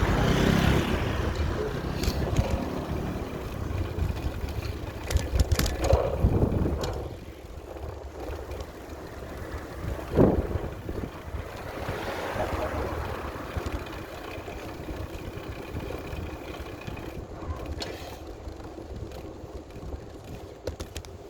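Wind buffeting the microphone while riding a bicycle, a loud low rumble that drops to a quieter, steadier rush about seven seconds in. A brief sharp sound stands out about ten seconds in.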